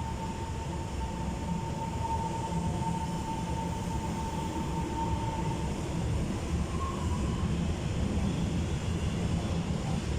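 Taiwan Railway EMU700 electric multiple unit pulling out of a station: a steady low rumble of the train running, with a steady whine that fades out about halfway through.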